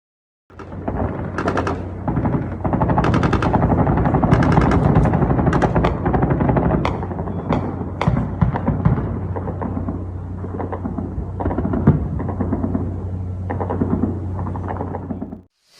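Anti-aircraft gunfire: rapid automatic bursts and separate sharp shots over a continuous din, with a steady low hum underneath. It starts about half a second in and cuts off suddenly just before the end.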